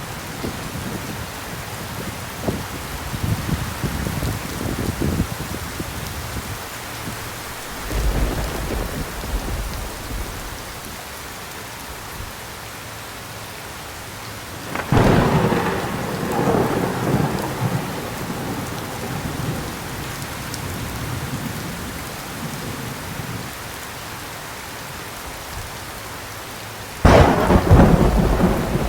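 Thunderstorm with steady rain falling throughout. Low rolling thunder rumbles through the first several seconds, then a sharp crack of thunder comes about fifteen seconds in and a louder one near the end, each trailing off into rumbling.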